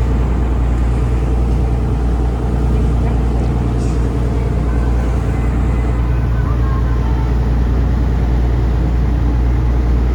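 Taxi boat's engine running steadily underway, a constant loud low hum.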